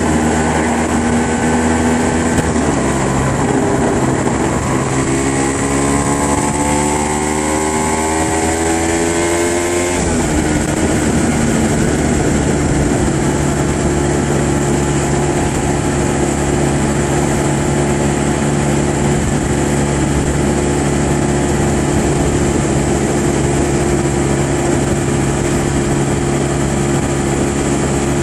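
Aprilia RS125's two-stroke single-cylinder engine under way, its note climbing steadily as the bike accelerates. About ten seconds in the pitch drops abruptly, then it holds a steady cruising note.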